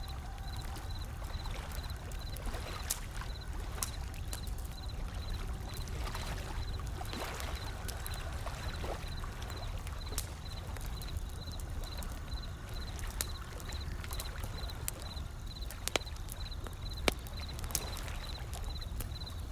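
Wood fire crackling, with scattered sharp pops, over a steady low wash of ocean waves. A faint, regular high pip sounds about twice a second.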